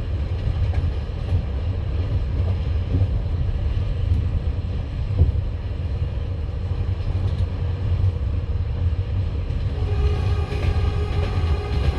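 Passenger train carriage running along the line: a steady low rumble of wheels on rails with a few scattered knocks. Near the end a steady, higher whine of several tones joins in.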